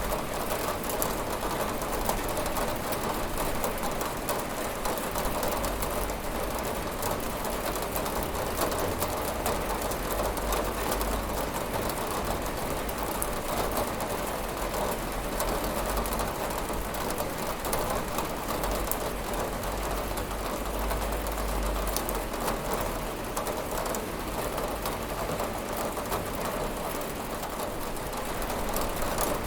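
Steady rain falling on a window, a dense, even patter of drops without letup.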